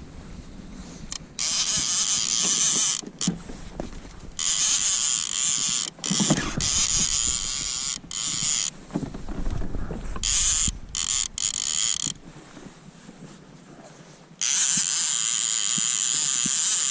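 Fishing reel being cranked in stop-start spurts, a whirring that starts and stops abruptly several times and runs steadily again from near the end, as a hooked fish (a pike or muskie) is reeled in.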